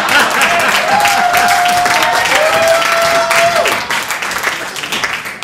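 Live audience applauding, with a few voices cheering over the clapping; the applause thins out over the last second or so.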